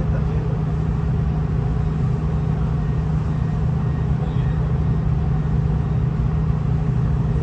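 Steady low rumble of a V/Line VLocity diesel railcar running, heard from inside the carriage.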